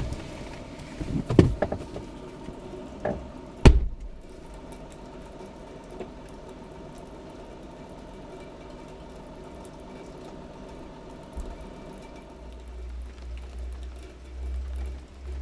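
Inside a vehicle: a few sharp knocks in the first four seconds, then a steady engine hum, with a low rumble swelling near the end.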